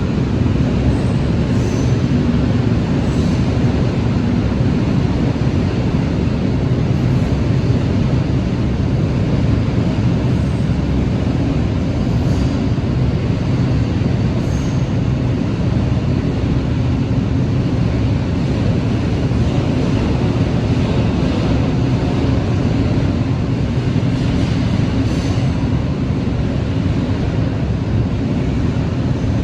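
Train running with a steady low rumble and no rise or fall, with a few faint, scattered high clicks.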